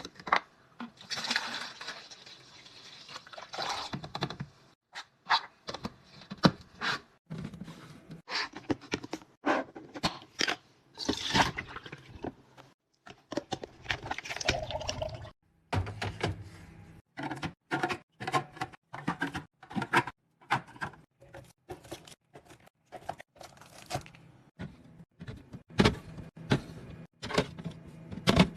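Food containers and packaging being handled while stocking a pantry and fridge: many knocks, clatters and scrapes as items are picked up and set down, with a few longer rushing stretches.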